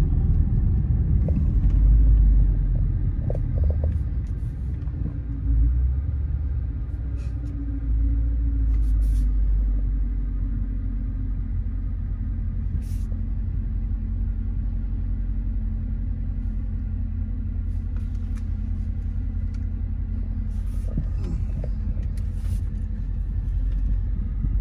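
Dodge Charger SRT 392's 6.4-litre HEMI V8 heard from inside the cabin: a deep low rumble while driving, easing off after the first few seconds and settling into a steady drone. A few faint clicks come now and then.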